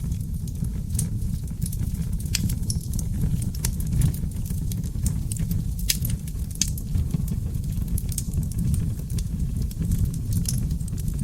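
Oak log fire burning in a fireplace: a steady low rumble of flames with frequent irregular sharp crackles and pops from the logs.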